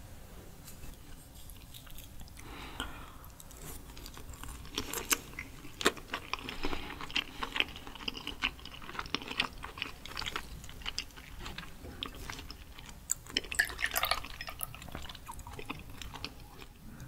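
Chewing a mouthful of raw sweet shrimp with sea urchin roe: soft wet mouth noises and many small clicks, busiest through the middle.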